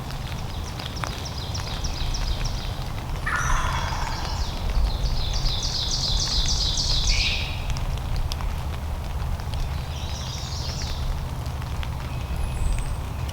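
Wild turkey calling: a falling note about three seconds in leads into a long, rapid rattling run of notes, and a second, shorter run comes near the end.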